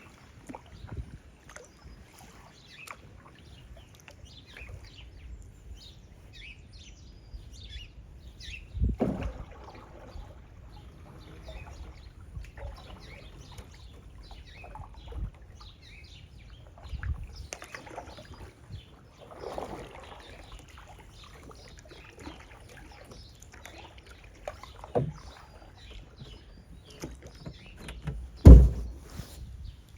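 Kayak being paddled through water, with many birds chirping and singing throughout. Several sudden dull knocks come now and then, the loudest near the end.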